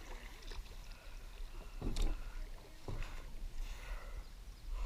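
Kayak paddling on a lake: paddle strokes in the water, with two sharper splashes or knocks about two and three seconds in, over a steady low rumble.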